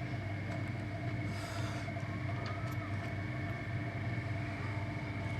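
A steady mechanical hum with several fixed tones, and a short hiss about a second and a half in.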